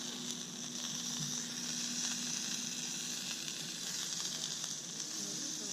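Food frying in oil in a pan, a steady sizzle left to cook undisturbed.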